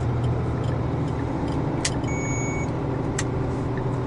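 Truck's diesel engine running steadily, heard from inside the cab, with two sharp clicks and a brief thin electronic beep.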